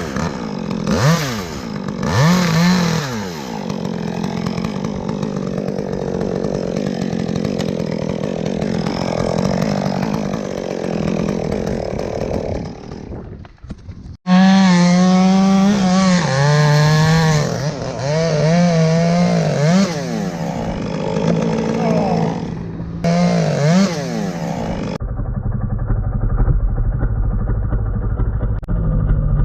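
Chainsaw running and revving up and down repeatedly, with a short break about halfway through before it comes back louder. Near the end it gives way to a steady, muffled low engine drone.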